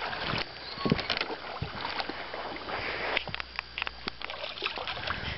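Handling noises in a small fishing boat: scattered knocks and clicks over a rustling background, with a low hum for a couple of seconds midway.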